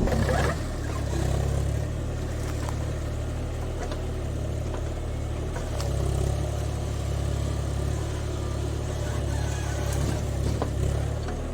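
JCB 30 Plus mini excavator's diesel engine running steadily, its note swelling a little now and then under load, with a few faint clicks and knocks.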